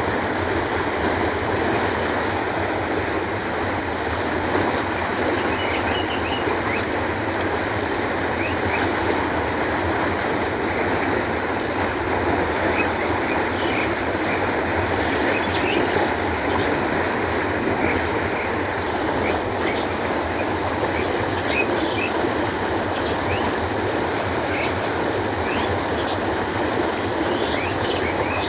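Canal water flowing in a steady, even rush, with scattered faint high bird chirps.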